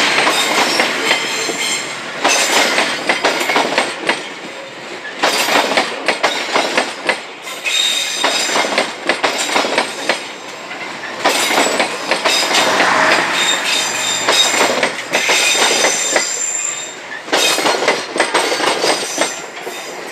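Passenger coaches of a train rolling past close by, their wheels clattering over the rails in bursts that come every few seconds as each bogie passes, with a high-pitched squeal from the wheels on the rails.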